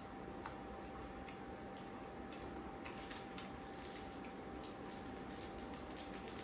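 Low room noise with a thin steady high tone and many faint small clicks, more of them in the second half.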